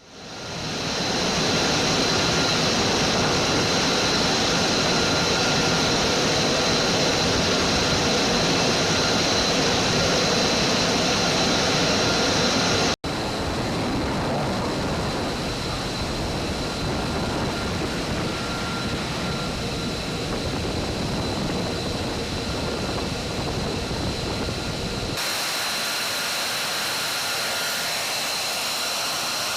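F-35 fighter's jet engine running steadily: a dense rush of noise with a thin high whine held throughout. It fades in at the start and breaks off abruptly about 13 seconds in before resuming. About 25 seconds in the low rumble drops out, leaving hiss and the whine.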